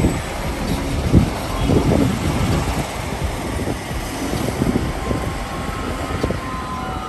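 A large vehicle running, a steady rumble with repeated low knocks and a faint whine near the end.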